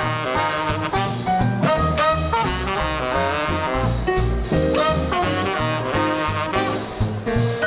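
Small-group swing band playing live: horns, saxophone and trumpet, carry the melody over piano, a walking bass line and drums keeping a steady beat.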